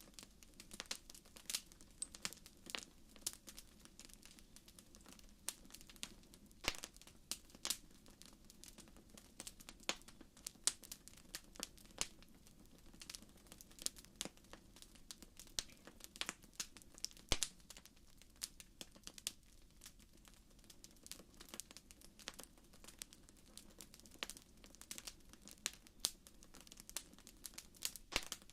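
Wood fire crackling in a fireplace: irregular sharp pops and snaps, several a second, over a faint steady low background.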